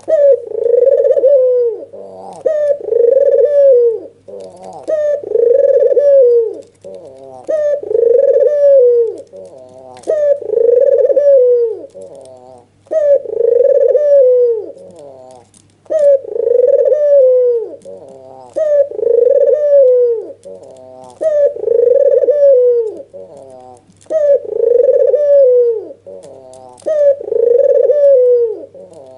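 Albino (white, red-eyed) ringneck dove giving its excited bowing coo over and over. Each call is a short stuttering lead-in followed by a long rolling coo, about one every two seconds. A faint steady hum runs underneath.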